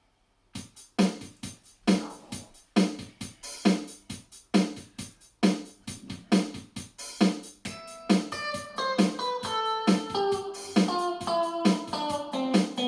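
Acoustic guitar strumming an intro, one strum a little under every second, starting about half a second in. From about eight seconds in, held melody notes join the strumming and step downward in pitch.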